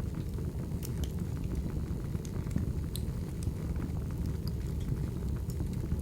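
Wood fire burning: a steady low rumble with scattered sharp crackles and pops, a couple of them louder about one and three seconds in.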